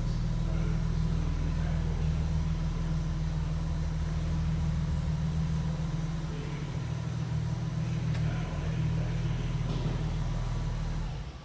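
Engine running steadily at idle, a low rumble that cuts off abruptly at the end.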